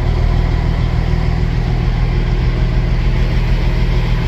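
Semi truck's diesel engine running steadily, a deep even drone.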